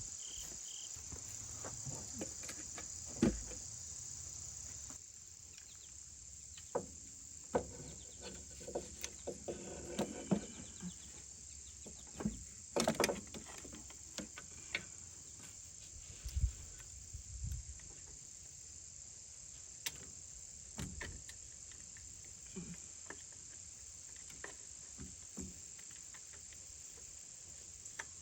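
Steady high-pitched insect chirring, with scattered knocks and clicks over it, the loudest a cluster about two thirds of the way through.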